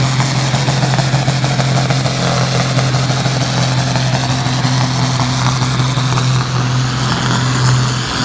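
Engine of a tractor-pulling machine running loud at steady revs, a constant low drone that holds its pitch throughout.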